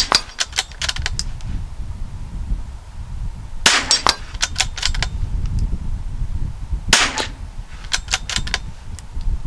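.22LR rifle shots, about three seconds apart: one right at the start, one a little under four seconds in, one about seven seconds in. Each crack is followed by a quick run of light clicks, with a steady low rumble underneath.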